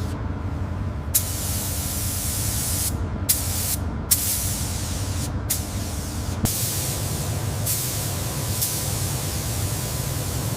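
Steady spraying hiss over a low, constant hum. The hiss comes in about a second in and breaks off briefly a few times.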